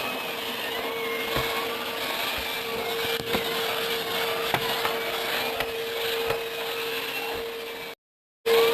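LG vacuum cleaner with a turbo brush running: a steady suction noise with a constant hum and a few sharp clicks. The noise cuts off abruptly near the end and is followed by a brief louder burst.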